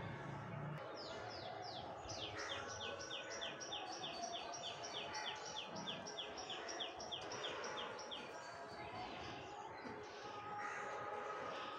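A bird calling in a long run of quick, high notes, each falling in pitch, about four a second, over steady background hum; the notes stop a little over eight seconds in.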